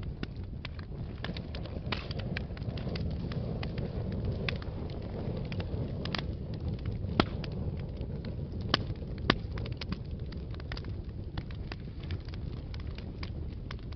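Wood fire burning in a fireplace: a steady low rumble of flames with irregular sharp crackles and pops, a few louder snaps in the middle.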